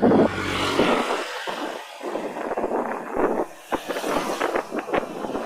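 Road traffic noise heard from a moving bicycle: a low engine hum in the first second, then uneven road noise with scattered short clicks.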